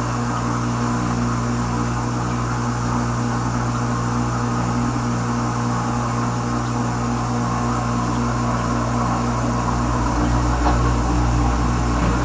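Kenmore Ultra Wash 3 dishwasher running mid-cycle: its wash motor gives a steady hum while water sprays and circulates inside the tub.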